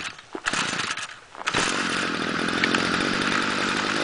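Stihl FS-45 two-stroke string trimmer engine on a cold start at about 0°F, still needing choke: it stumbles and nearly dies twice in the first second and a half, then catches and runs steadily.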